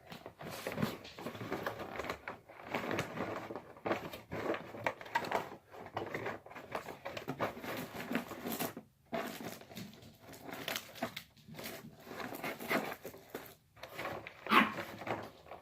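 Handling noise as a paper vacuum bag is fitted into a Hoover WindTunnel Plus upright: irregular rustling of the bag with clicks and small knocks of plastic parts, and a sharper knock near the end.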